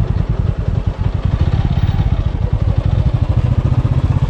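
Motorcycle engine running over a rough off-road trail, a steady run of rapid low pulses.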